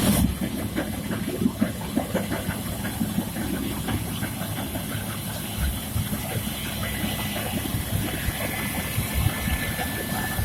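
Farm machinery engine running steadily with a hiss, broken by frequent short low knocks; a faint thin whine joins it in the later part.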